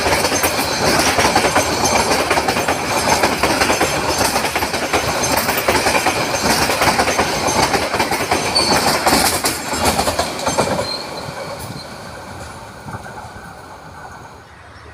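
Train passing close by, its wheels clattering over the rail joints with some squeal, then fading away during the last few seconds.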